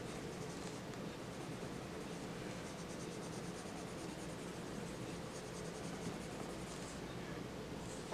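Colored pencil scratching lightly on paper in many quick, short strokes, faint over a steady low room hum.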